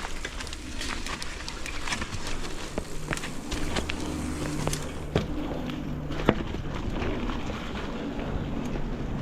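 Mountain bike riding fast down a rough trail: the bike clatters and rattles over bumps and roots, with a few louder knocks about five and six seconds in, under a steady rush of air.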